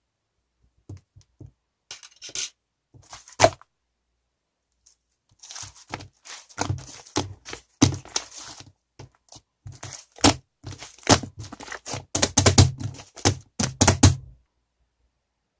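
Irregular thunks, clicks and crinkling handling noises: a few scattered knocks at first, then a busy run of clattering and rustling that stops suddenly near the end.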